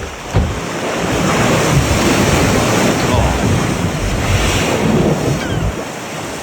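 Wind buffeting the microphone over the rush of sea water, in loud gusts that build after about a second.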